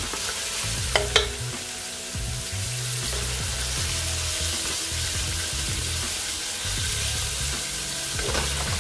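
Julienned carrots, ginger and peppers sizzling in hot coconut oil in a pot as a wooden spatula stirs them, with two sharp knocks about a second in.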